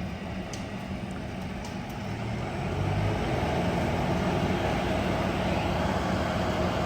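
Steady engine noise that grows louder about two and a half seconds in, then holds level.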